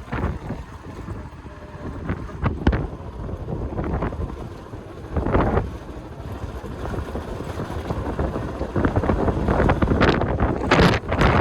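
Gusty wind buffeting the microphone, rising and falling, loudest near the end.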